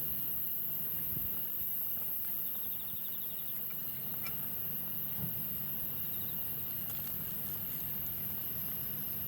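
Wood campfire burning steadily, with a few faint, scattered crackles and pops.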